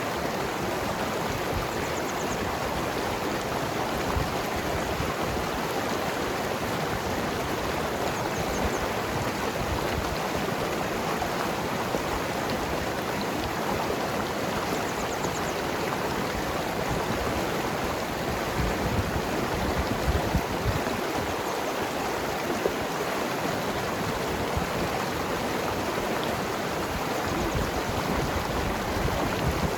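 Mountain river flowing and gurgling over rocks: a steady rush of water.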